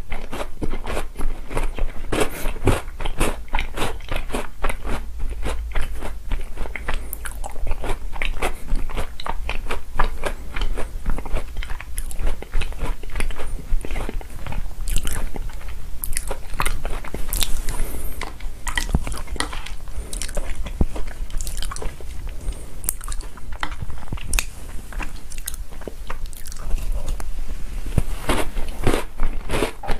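Close-up chewing and crunching of chocolate cookies soaked in chocolate milk, a dense run of crisp crunches and mouth sounds.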